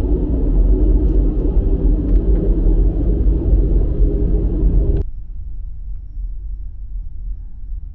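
Loud, steady low vehicle rumble that cuts off abruptly about five seconds in, leaving a much quieter low hiss.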